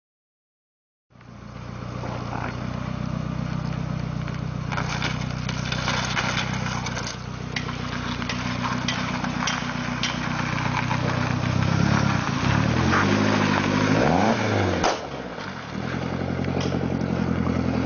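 Fiat Coupe 2.0 16v turbo's four-cylinder engine running at low revs as the car creeps across gravel, with scattered clicks and crunches from the stones under the tyres. The sound starts about a second in, and the revs rise and fall a few times near the end.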